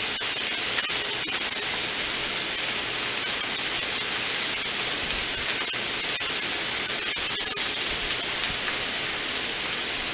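Sausage, peppers and onions frying in canola and olive oil on a hot flat-top griddle: a steady sizzling hiss with scattered small pops.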